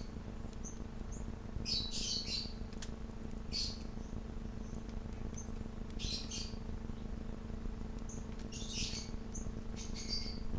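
Small songbirds chirping in short clusters of quick, high notes, five or six times over the span, with a steady low hum underneath.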